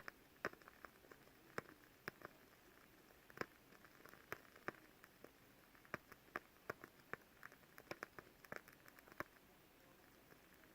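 The wooden wick of a burning WoodWick candle crackling: sharp, irregular pops and clicks, a few a second, over a faint hiss.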